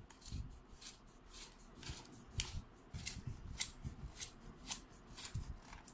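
Irregular sharp plastic clicks and light knocks, about a dozen: the Electrolux ZAP9940 vacuum cleaner's telescopic extension tube being slid out notch by notch to its full length.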